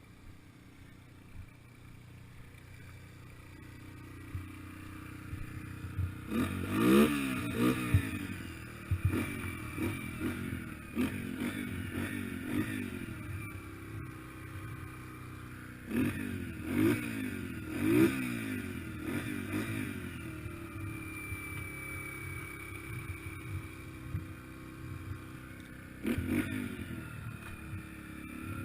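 Yamaha TTR-125LE dirt bike's single-cylinder four-stroke engine running, quiet at first, then revving up and down in short bursts several times as the bike pulls away and rides.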